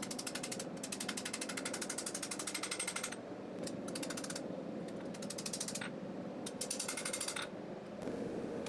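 Rapid hammer blows on hot knife steel, about ten strikes a second, in several bursts of up to two seconds with short pauses between, peening the blade near the heel. A steady hum runs underneath.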